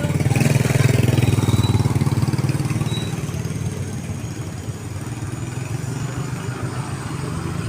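Small motorcycle engine running with a rapid, even putter. It is loudest in the first couple of seconds, then eases somewhat.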